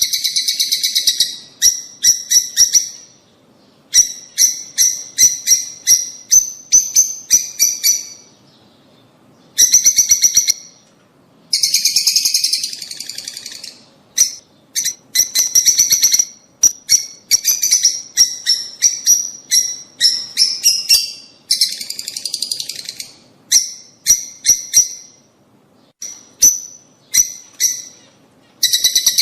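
Lovebirds calling: runs of rapid, shrill chirps lasting one to two seconds each, with brief pauses between runs.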